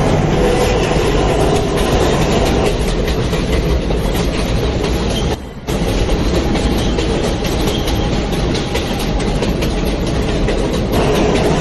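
New York City subway train (J line) running between stations, with steady wheel and track noise and a clickety-clack of rail joints. The noise drops out briefly about halfway through.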